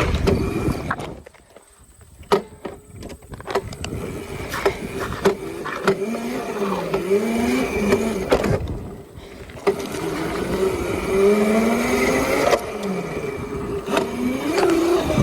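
Razor MX350 electric dirt bike's motor whining as it is ridden, the pitch rising and falling again and again with the throttle, with scattered clicks and knocks from the bike. The whine drops away briefly about a second in.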